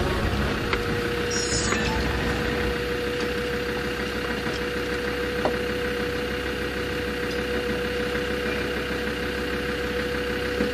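In-cab sound of a Land Rover crawling over a rocky track: the engine runs at low revs with a steady hum, with a few scattered light knocks and clicks from the body and suspension.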